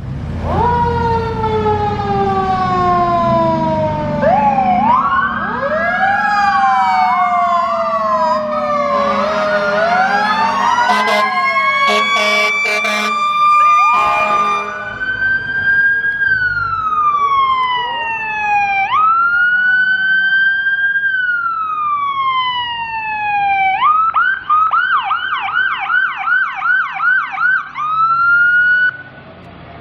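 Seagrave fire trucks running with sirens: electronic wails sweeping down again and again, a siren tone winding slowly up in the middle, and a burst of horn blasts, over low engine rumble. Near the end the siren switches to a fast yelp.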